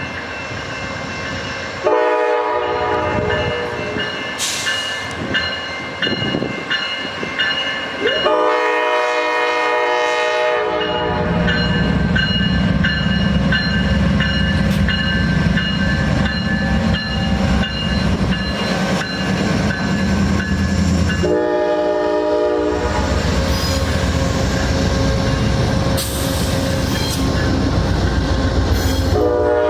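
Amtrak Coast Starlight passenger train sounding its warning air horn in several long blasts. From about a third of the way in, the heavy rumble and clatter of the train's wheels running past close by sets in, with further horn blasts over it.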